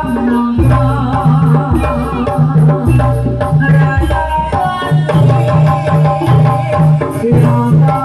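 Live jaranan (kuda lumping) music: an ensemble's drums keep a steady, repeating beat under a pitched melody that wavers in pitch.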